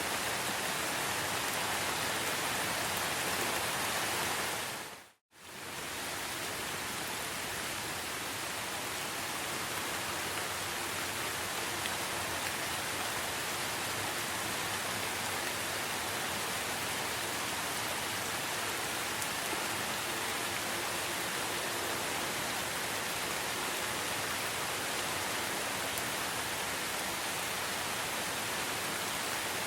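Steady rain. It dips to a moment's silence about five seconds in and fades back up within about a second.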